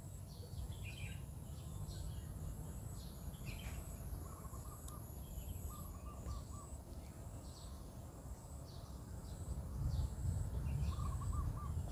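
Small birds chirping, with a few short trills, over a low rumble of background noise that gets a little louder near the end.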